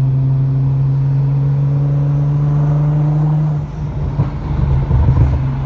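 Nissan GT-R's twin-turbo V6 through a muffler-less 4-inch stainless Y-pipe exhaust, heard in the cabin with the windows down, cruising at steady revs with a low drone. About three and a half seconds in the steady note breaks into an uneven rumble with a few knocks, then settles again near the end.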